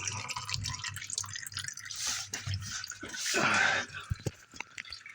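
Engine oil from a 2000 Ford Ranger 4.0 dripping and trickling into a drain bucket after the oil filter is removed, with a louder gush about three seconds in.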